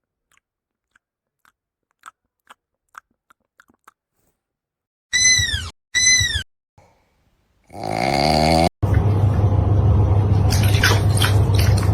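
Kitten sounds: faint small clicks, then two short high-pitched mews about five seconds in and a longer cry near eight seconds. After that comes a loud, steady, noisy sound with a low hum.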